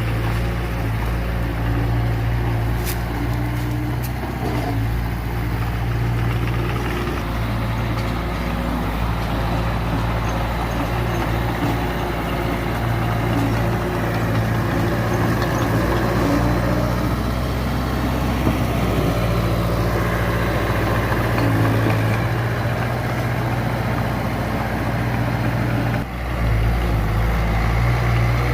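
Heavy diesel earthmoving machinery running continuously, its engine note shifting up and down as it works under load, with a brief dip near the end.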